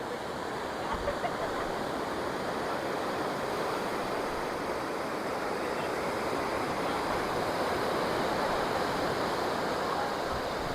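Sea surf breaking on a rocky shore: a steady rushing wash of water that swells gradually.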